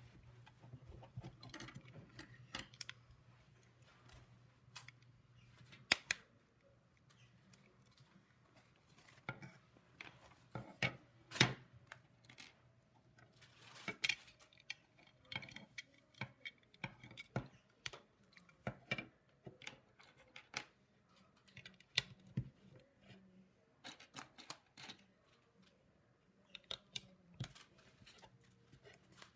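LEGO pieces and packaging being handled during a set build: irregular small plastic clicks and knocks with light rustling, a few sharper clicks standing out.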